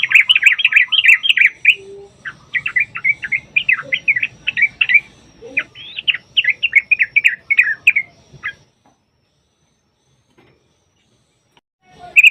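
Yellow-vented bulbul (trucukan) singing: fast, bubbly, chattering phrases strung together for about eight seconds. The song breaks off, and a short burst starts again just before the end.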